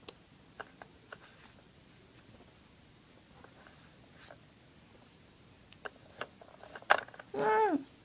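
Small plastic toy pieces being handled, with scattered light clicks and taps, and a short voiced sound near the end whose pitch rises then falls.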